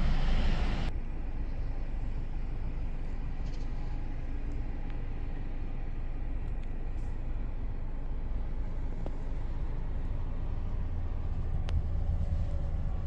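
Highway traffic: a loud rush from a passing vehicle that cuts off abruptly about a second in, then a steady low rumble of trucks and cars that builds again near the end.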